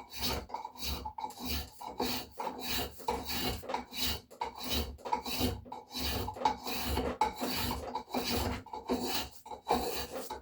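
Spokeshave shaving a white oak axe handle in short pull strokes in quick succession, a dry scraping of wood.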